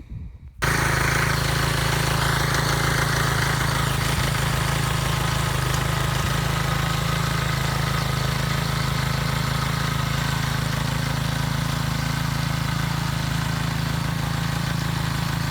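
Small engine of an old garden cultivating machine running steadily. It cuts in abruptly about half a second in.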